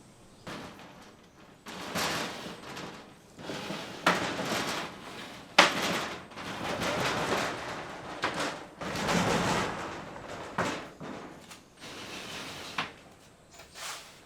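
A series of scraping and rustling noises, each a second or so long, with several sharp knocks in between.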